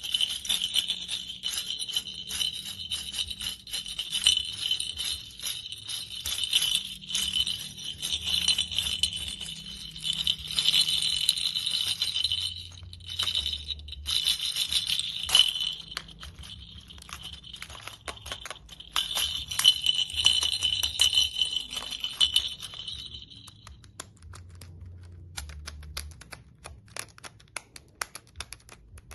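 Small bells on a toy jingling as it is shaken, with a short pause about halfway. The jingling stops with several seconds left, leaving light, irregular clicks.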